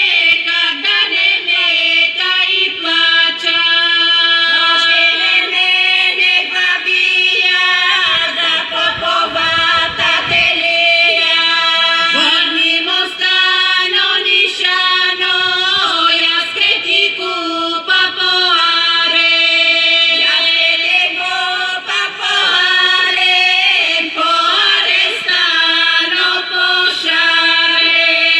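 Women's folk singing group singing a Bulgarian folk song together, the melody bending above a steady held drone note.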